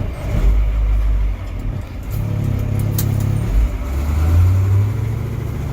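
Car engine running on the move, its low hum stepping to a higher pitch about two seconds in, then climbing again about four seconds in.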